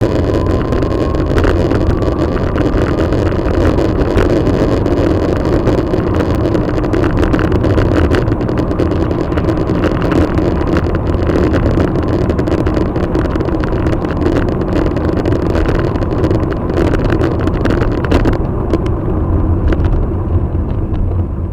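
Steady road and engine noise of a car driving, heard from inside the cabin, with frequent small clicks and rattles. The higher hiss drops away about eighteen seconds in.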